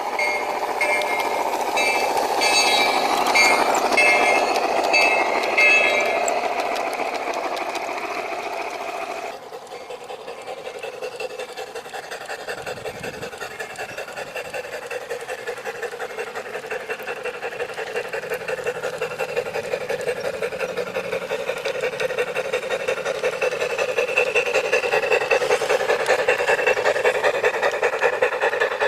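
G-scale garden railway train running on track: a steady mechanical clatter with a regular rhythmic beat. The sound changes abruptly about nine seconds in.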